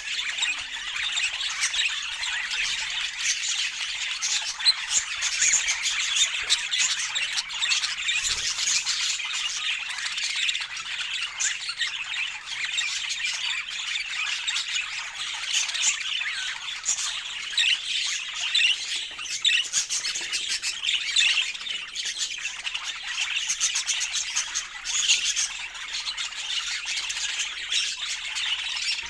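Budgerigars chattering and squawking without a break, many short quick calls overlapping.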